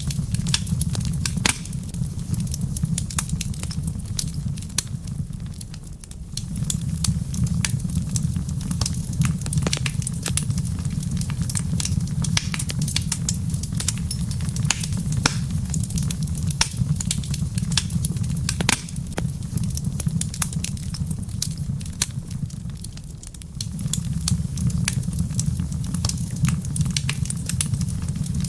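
Wood fire crackling in a fireplace, with frequent irregular sharp pops over a low rumble that dips away twice and returns.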